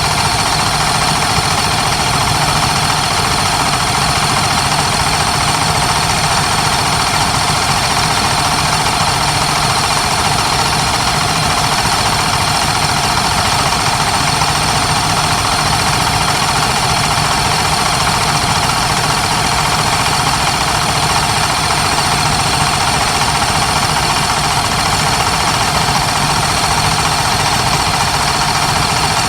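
Vintage racing motorcycle engine running at a steady pitch, without revving up or down.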